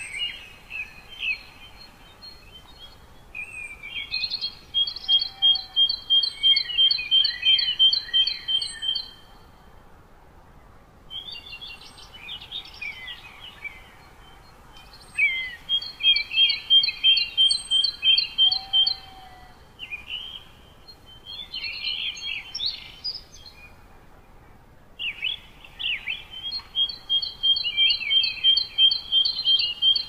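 Songbird singing in phrases a few seconds long, each a jumble of chirps with a fast run of repeated high notes, with short pauses between phrases, over a faint steady hiss.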